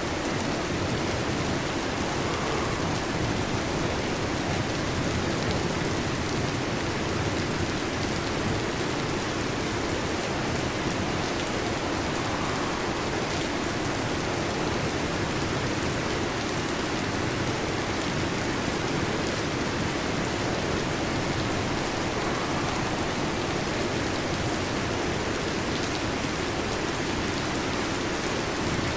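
Heavy rain falling steadily on a metal roof, an even, unbroken hiss with no thunder.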